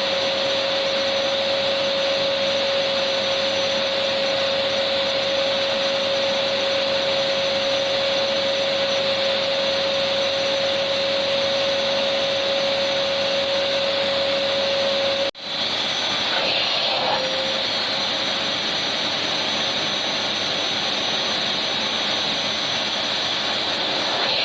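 Electric vacuum cleaner running steadily, a whooshing rush of air with a steady motor hum. About 15 seconds in the sound cuts out for an instant, and the hum then comes back weaker.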